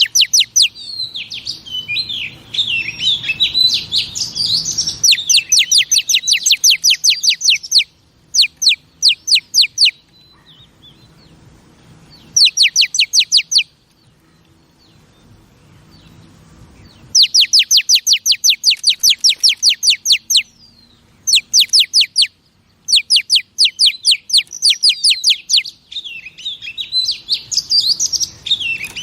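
Female oriental magpie-robin calling: fast series of sharp, sweeping high notes, about seven a second, in bursts of one to three seconds with short pauses between, and stretches of warbled twittering near the start and near the end. A female's call of the kind used to rouse male birds.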